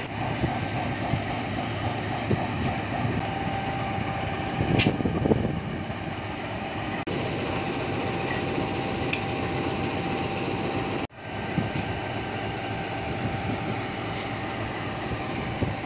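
Steady running noise of a passenger train, with a few sharp clicks. The sound cuts out for an instant about eleven seconds in.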